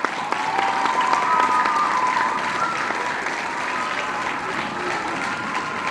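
Crowd applauding, a dense patter of many hands clapping, with whistles heard over it.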